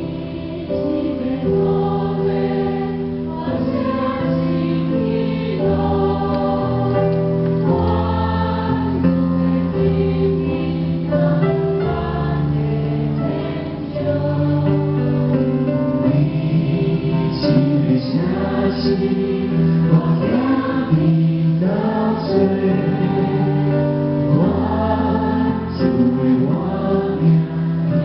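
Large choir singing a gospel-style song together, in sustained notes, over instrumental accompaniment.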